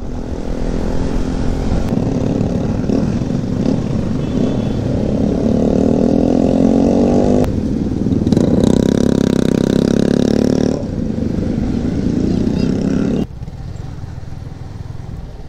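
Yamaha sport motorcycle's engine heard from the rider's seat, accelerating through the gears: the pitch climbs, breaks briefly for a gear change about seven and a half seconds in, and climbs again. It then runs lower and falls off abruptly about two seconds before the end as the throttle is closed.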